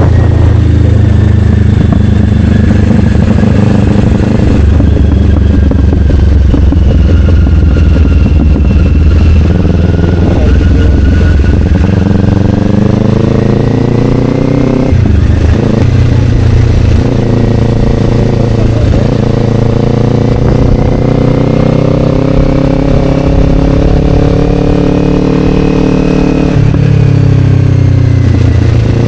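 Kawasaki Ninja 500 parallel-twin engine through an Akrapovic slip-on exhaust, under way: the engine note climbs as the bike accelerates, breaks off suddenly about halfway through as it shifts gear, then carries on with its pitch rising and falling.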